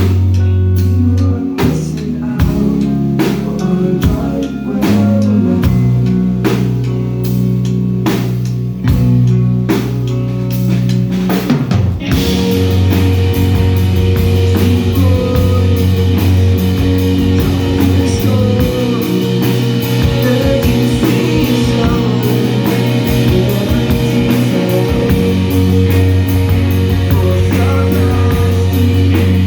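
Live rock band playing: drum kit, bass and electric guitar. About twelve seconds in, the full band comes in harder and denser, with crashing cymbals and heavier guitar.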